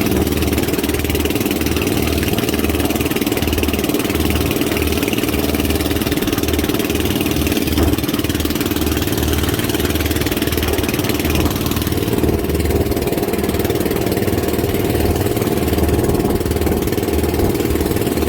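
Boat engine running steadily at an even speed, with a fast low throb.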